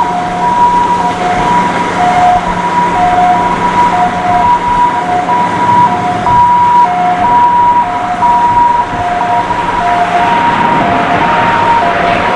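Emergency vehicle siren in a hi-lo two-tone pattern, switching between a higher and a lower note about every half second. Near the end an aircraft's engine noise begins to build.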